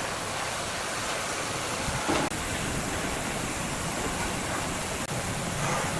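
Sawmill machinery running with a steady rushing noise, cut off very briefly about five seconds in.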